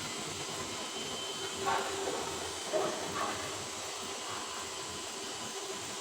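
Stick (SMAW) welding arc with an E7018 electrode, a steady crackling hiss as the bead is laid on carbon steel pipe. Two brief louder sounds come in just under two and three seconds in.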